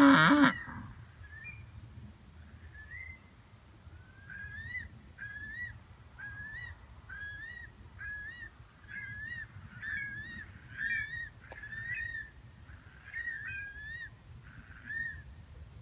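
The end of a cow's moo in the first half-second, followed by a long series of short bird calls, each bending up in pitch, repeated about once or twice a second and thinning out near the end.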